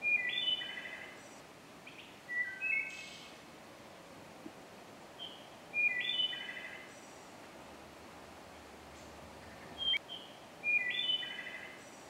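A songbird singing a short phrase of clear whistled notes that step downward, three times about five seconds apart, with a different, lower phrase about two and a half seconds in. A steady outdoor hiss lies underneath.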